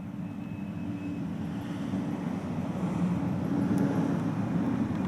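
Low engine rumble growing steadily louder.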